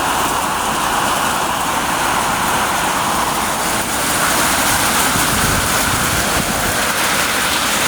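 Heavy rain pouring down in a storm, a loud, steady hiss.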